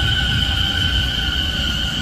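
Keio Line electric train at the platform, giving a steady high-pitched whine over the low rumble of its wheels.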